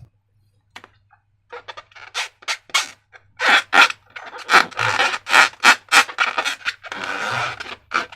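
Slime being squished and worked by hand: a run of irregular sticky clicks and squelches, sparse at first and coming thick and fast from about three and a half seconds in.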